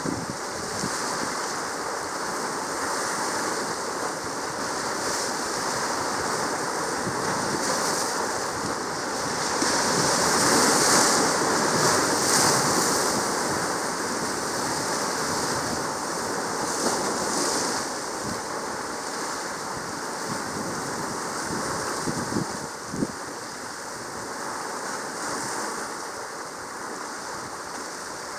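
Sea water rushing and washing steadily, swelling louder for a few seconds near the middle. Two brief knocks come a little over two-thirds of the way through.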